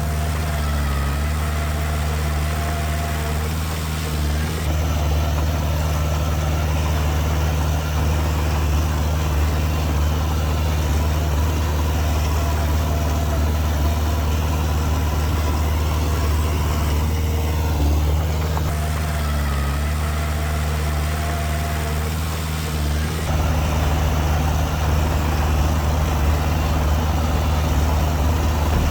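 Heavy diesel engine of earthmoving machinery running steadily with a deep low hum. Its note shifts a few times.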